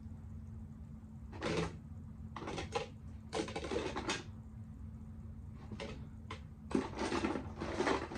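Small plastic makeup items clattering and clicking as they are picked up and dropped into a container, in a few irregular bursts that grow busier near the end.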